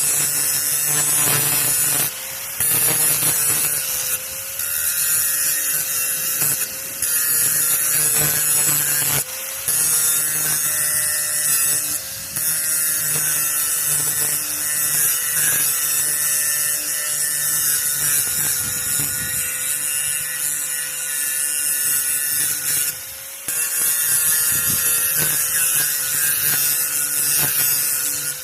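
Grinder grinding the edge of a metal power-rake (dethatching) blade: a steady high whine with a harsh grinding hiss, broken by short dips every few seconds.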